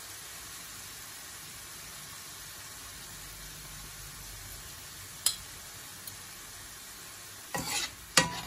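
Chopped tomatoes, onion and garlic sizzling steadily in a frying pan. A single sharp click comes about five seconds in, and near the end a metal spoon scrapes and knocks in the pan a few times as the mixture is stirred.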